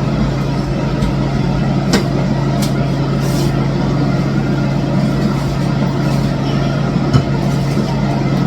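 Steady, loud machine-like hum with a constant low tone over a rushing noise, and a few faint clicks.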